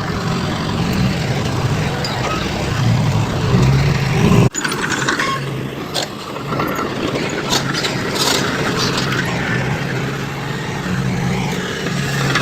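Heavy diesel construction machinery running with a steady low engine drone. About four and a half seconds in, the sound cuts abruptly to a lighter engine sound with scattered metallic clanks and rattles.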